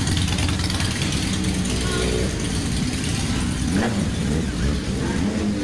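Motorcycle engines running at idle, with a brief change in engine pitch about four seconds in, over background crowd voices.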